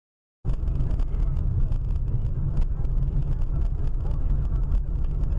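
Car driving, picked up by a dashcam: a steady low road and engine rumble that starts abruptly about half a second in, with faint scattered ticks above it.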